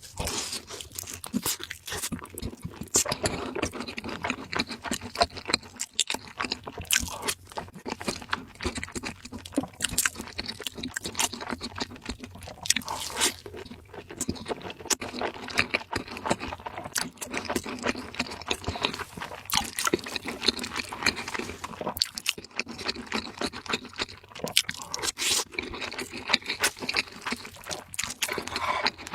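Close-miked eating: steady chewing with frequent sharp crunches and wet clicks, the crisp bites of fried food.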